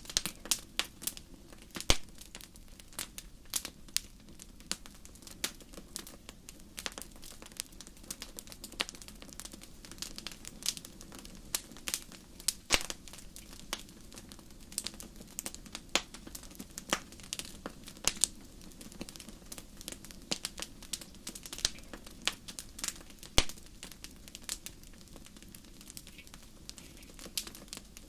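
Wood fire in a fireplace crackling, with irregular sharp pops and snaps, a few much louder than the rest, over a steady low rush of the flames.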